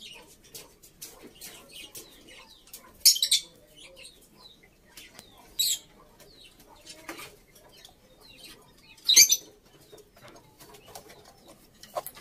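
Birds chirping and calling, broken by three short, loud, high-pitched bursts.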